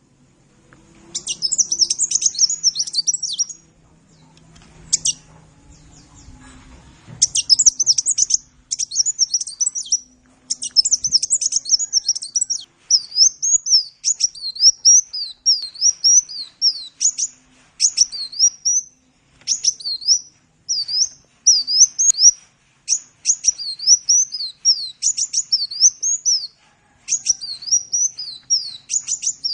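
Sunbird (the bird Indonesian birdkeepers call 'kolibri') singing a fast, high-pitched twittering song in bursts. After a short pause, it settles from about halfway into an unbroken string of quick, repeated sweeping notes.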